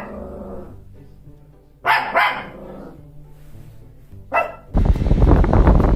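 Dog barking: two quick barks about two seconds in and a single bark just after four seconds. Near the end a loud, steady rumble of wind on the microphone cuts in suddenly.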